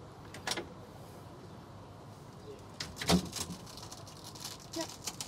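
A few short clicks and knocks over a quiet background, the loudest about three seconds in.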